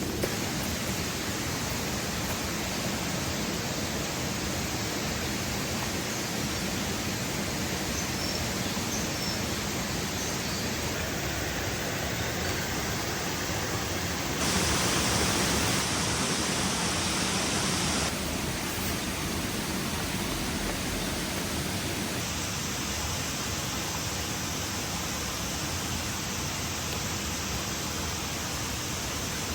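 Steady rushing outdoor noise with no voices. It steps up abruptly about fourteen seconds in and drops back about four seconds later.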